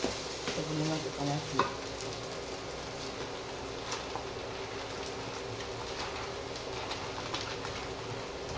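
Sardine, egg and chilli-paste mixture sizzling steadily in a non-stick wok, with fine crackles throughout. A wooden spatula stirs and clicks against the pan in the first couple of seconds.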